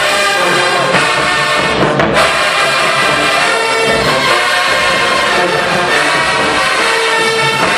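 HBCU marching band playing loudly, its brass section carrying the tune with long held notes.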